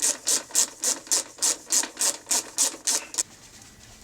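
Rhythmic back-and-forth rasping strokes, about four a second, which stop about three seconds in.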